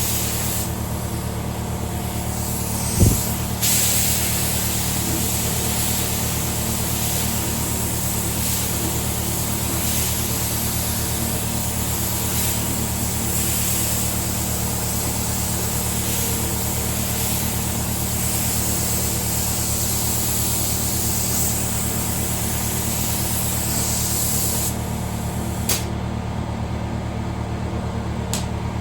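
Air compressor running steadily, under the hiss of compressed air from a paint spray gun that comes and goes and stops near the end. A single sharp knock sounds about three seconds in.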